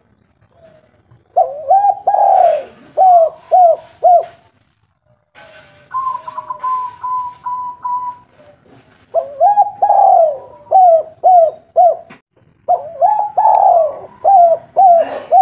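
Spotted dove cooing in three repeated phrases, each a longer slurred coo followed by three short clipped coos. Between the first and second phrase comes a softer, higher, level run of notes.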